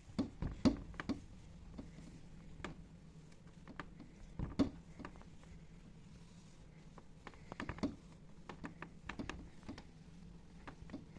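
Irregular light clicks, taps and knocks of household objects being handled during cleaning, over a steady low hum.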